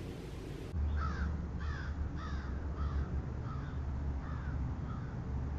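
A bird calling in a steady run of repeated calls, about two a second, that grow fainter toward the end. Under the calls runs a steady low rumble from the outdoor microphone, which starts just under a second in.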